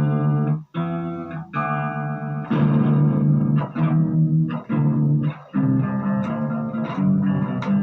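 Electric guitar played through a Marshall MG15GFX 15-watt combo amp on its OD2 overdrive channel with the delay effect on: a run of held chords and notes changing about once a second, with a brief break under a second in.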